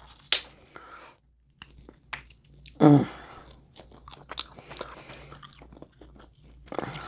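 Close-up eating sounds of a seafood boil with crab legs: chewing, lip smacking and small crunches, with a sharp click near the start and a brief voiced sound about three seconds in.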